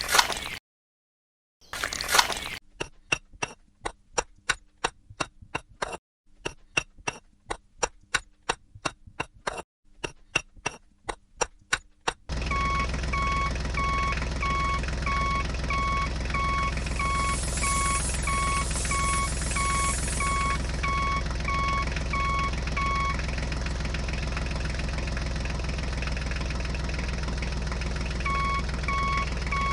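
An engine putters in regular knocks, about three a second, with a couple of short breaks. About twelve seconds in, a steady vehicle engine sound takes over, with a reversing alarm beeping about twice a second. The alarm stops for a few seconds near the end, then starts again.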